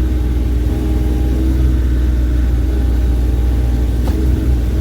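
Bobcat E35 mini excavator's diesel engine running steadily just after a cold start, with a single brief knock about four seconds in.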